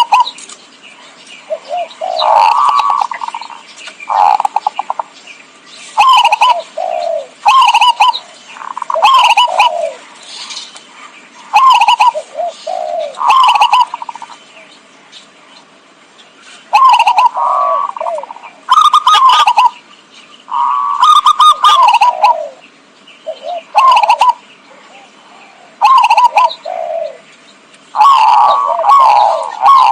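Zebra dove (perkutut) cooing: short phrases of rapid soft notes that fall in pitch at the end, repeated every couple of seconds with brief pauses between. This is the perkutut call used as a lure to draw in wild doves.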